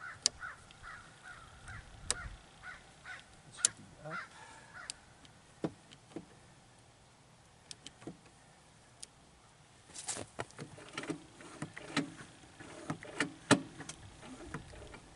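A crow cawing in a quick, even series for the first four seconds or so, then scattered sharp clicks and knocks, bunched between about ten and fourteen seconds in.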